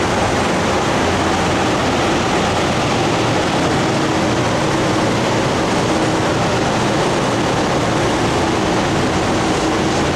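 Steady fan noise: a loud, even rush of air with a faint steady hum running under it.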